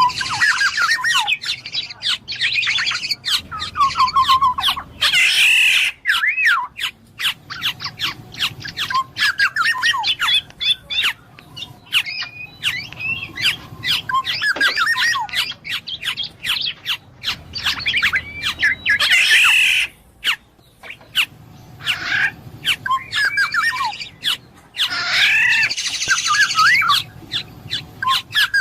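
Black-naped oriole (kepodang emas) calling in long runs of quick gliding whistled notes and clicks, with harsh rasping squawks mixed in every several seconds and brief pauses between bursts.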